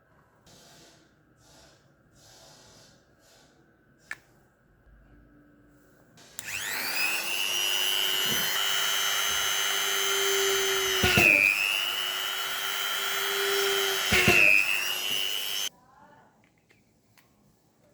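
Small high-speed electric motor spinning up to a steady high whine, bogging down in pitch twice as if briefly loaded, then stopping abruptly. A single click comes before it starts.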